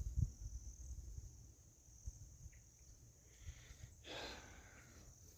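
Faint, steady high-pitched insect trilling in woodland, with low rumbles at the start and a brief soft rustle about four seconds in.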